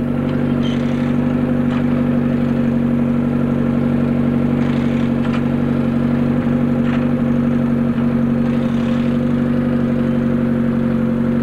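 Ford Sierra Cosworth rally car's turbocharged four-cylinder engine idling steadily at close range.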